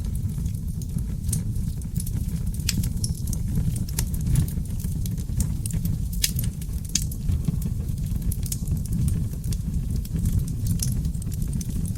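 Wood fire burning in a fireplace: a steady low roar of flames with frequent small crackles and pops from seasoned oak logs, a few of the pops sharper and louder than the rest.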